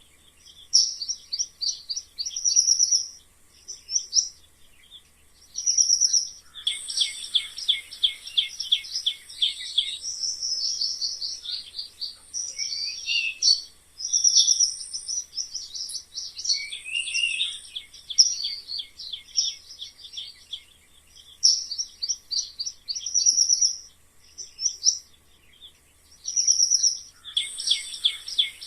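Mice squeaking: bursts of rapid, high-pitched squeaks, each burst lasting a second to a few seconds, coming again and again with short pauses between.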